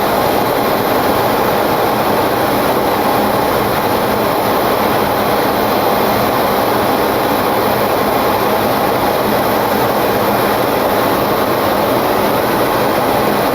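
Steady rushing noise on the flight deck of a Boeing 727-200 in flight, descending on approach. The sound is of air streaming past the cockpit and the jet's running noise, even and unbroken throughout.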